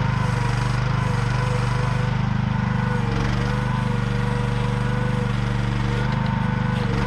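AGT QH12R mini excavator running steadily: a loud engine with a thinner whine above it that wavers slightly in pitch.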